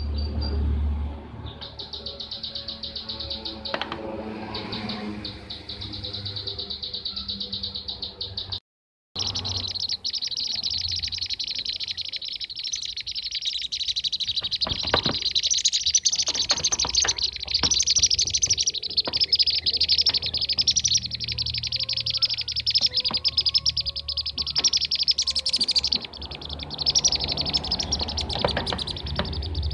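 Kirik-kirik (bee-eater) calls: a dense, fast run of high-pitched rolling chirps that sets in about a second and a half in, cuts out completely for a moment near nine seconds, then continues.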